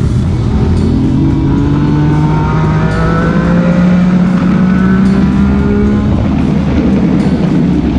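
Motorcycle engine accelerating, its pitch rising steadily for a few seconds before levelling off and falling away, over heavy road and wind noise; music plays alongside.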